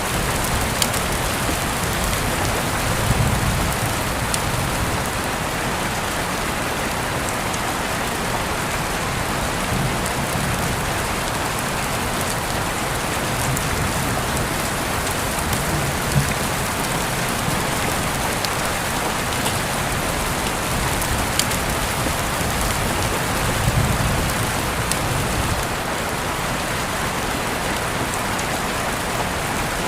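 Steady rain falling and pattering on a surface, with scattered individual drop ticks. A few short low rumbles come about three, sixteen and twenty-four seconds in.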